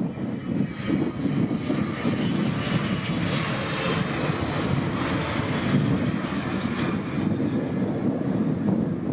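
Jet airliner engines passing, a whining roar that swells to a peak around the middle and then fades, over constant wind buffeting the microphone.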